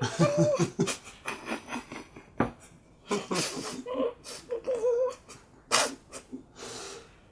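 Muffled, short laughs, snorts and gasping breaths from a person whose mouth is stuffed full of marshmallows, in irregular bursts with brief wavering voiced sounds.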